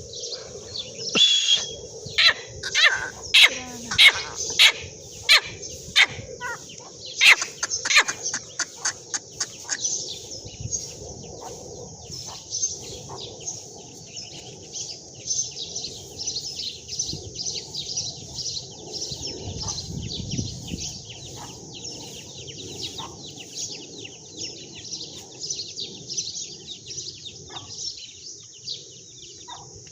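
Teetar (francolin) calling: a run of loud, sharp, repeated calls that speed up over the first ten seconds. Steady high-pitched chirping from birds continues after the calls stop.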